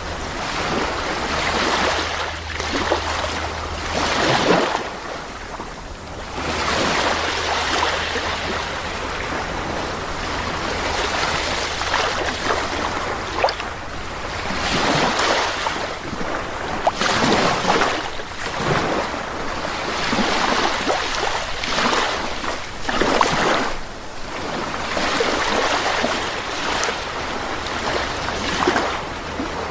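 Sea surf on a beach: waves breaking and washing in, the rush of water swelling and falling back every few seconds.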